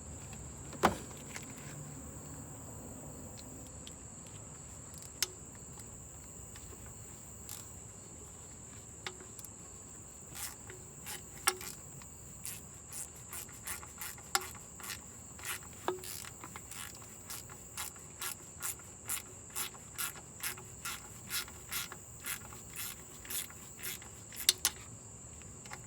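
Hand ratchet clicking in a steady run of short strokes, about two a second, as the transmission pan bolts are run in by hand, with a few sharper knocks before it starts. Crickets chirp steadily throughout.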